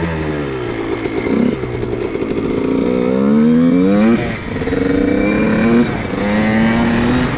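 Honda CR125 two-stroke dirt bike engine accelerating under load, its pitch climbing, dropping sharply about four seconds in, then climbing again.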